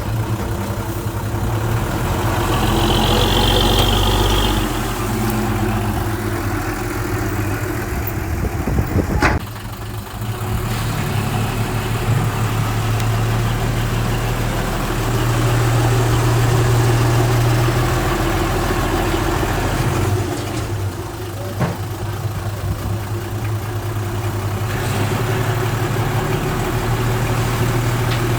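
Heavy diesel engine of earth-moving equipment running steadily, its level swelling and easing as the load changes, with a sharp click about nine seconds in.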